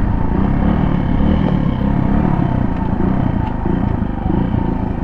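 Suzuki DR200's single-cylinder four-stroke engine running on the stock muffler while the bike rides winding roads, its pitch rising and falling with the throttle. The engine eases off slightly about four seconds in.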